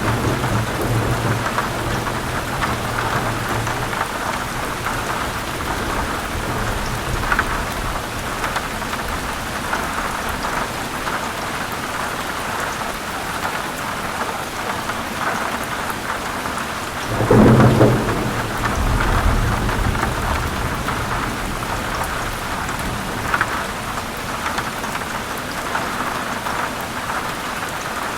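Steady heavy rain falling on forest leaves, with thunder. A loud low rumble of thunder breaks in a little past halfway and dies away over several seconds.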